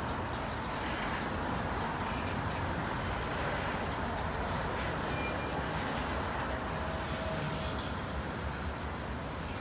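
Loaded coal train's freight cars rolling past: a steady rumble of steel wheels on the rails, with a couple of brief faint squeals about halfway through.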